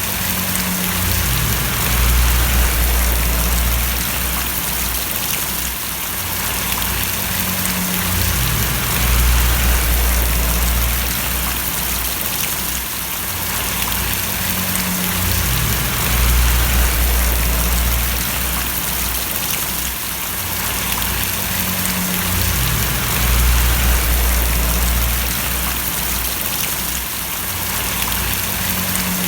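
Steady rain falling and splashing, an even hiss, with a low rumble underneath that swells and falls back about every seven seconds.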